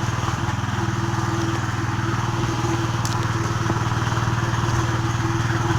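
A motor running steadily, a constant low hum with a fast, even pulse.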